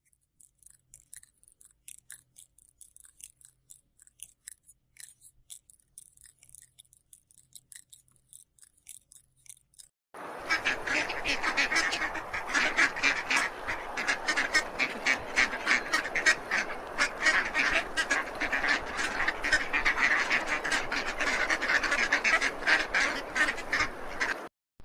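Faint scattered high chirps and ticks, then, about ten seconds in, a flock of birds starts calling all at once: a loud, dense clamour of many short overlapping calls that stops just before the end.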